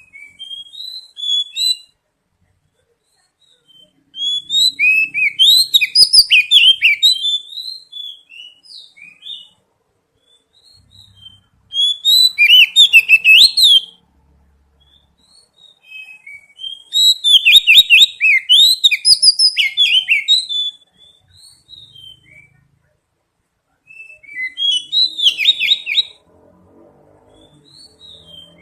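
Oriental magpie-robin (kacer) singing loud bouts of rapid, high whistled and chattering phrases. There are about five song bouts with short pauses between them.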